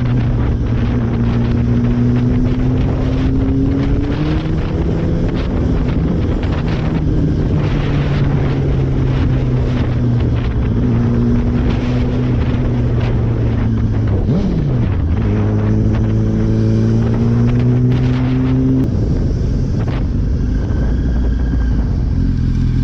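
Motorcycle engine running steadily while riding, with wind on the microphone. The engine note steps up and down in pitch a few times, and a falling tone sweeps down about two thirds of the way through.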